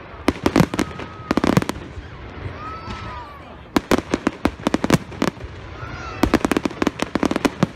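Fireworks display: rapid sharp bangs and crackles coming in four clusters, with short lulls between them.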